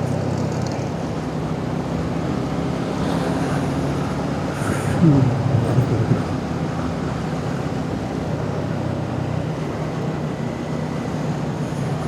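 Motorcycle engine running at steady road speed with wind and road noise. About five seconds in it briefly gets louder, and its note slides down and then climbs again.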